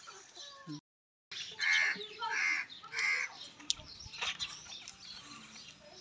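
A bird calls three times in quick succession, each call short and harsh. A few light knocks follow.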